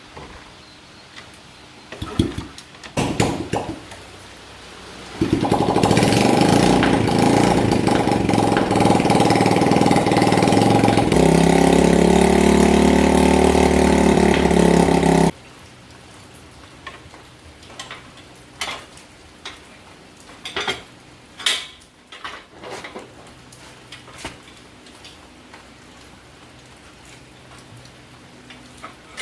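Small motorcycle engine running steadily for about ten seconds, settling to a lower, deeper note about halfway through, then cut off suddenly. Light clicks and knocks come before and after it.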